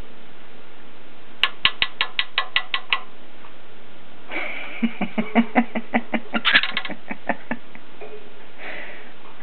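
A cockatiel clicking in rapid series: a run of about nine sharp clicks over a second and a half, then after a pause a longer run of fuller clicks at about five a second.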